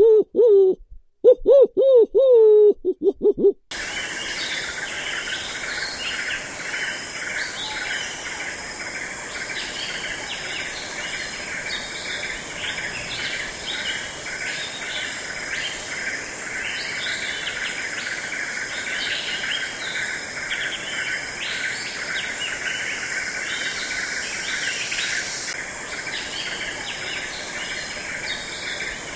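An owl hooting, a few short calls that bend in pitch. About four seconds in, this gives way to a steady outdoor chorus of insects with birds chirping over it.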